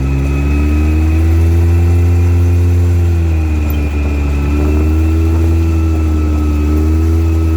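A vehicle engine running at a fairly steady speed, its pitch dipping a little around the middle and coming back up, over a strong low hum.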